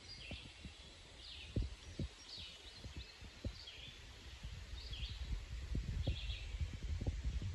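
A songbird singing short high phrases, about one a second, in a quiet forest, with a few soft low thumps, the loudest about one and a half seconds in.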